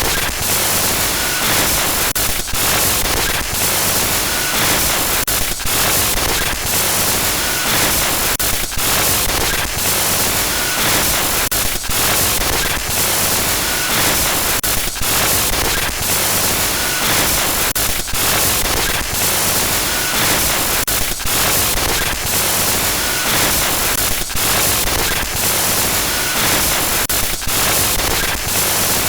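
Loud static-like glitch noise: a dense hiss that keeps breaking off for an instant, with a faint flickering tone now and then.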